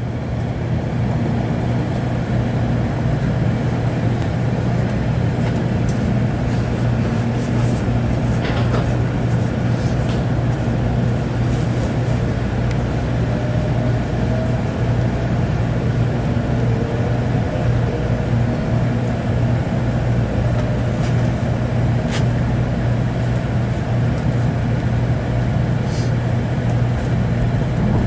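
Running noise inside a Shinkansen bullet train carriage as it pulls away: a steady low hum and rumble, with a faint whine slowly rising in pitch partway through as the train gathers speed.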